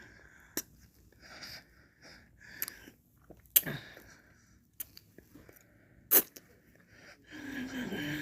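Close-miked mouth sounds of eating ice cream: soft wet licking with several sharp lip smacks and clicks, then a longer wavering wet sound near the end.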